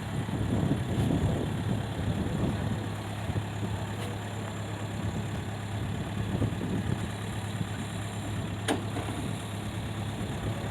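Tractor engine running steadily with a low, even hum, and a single sharp click about three-quarters of the way through.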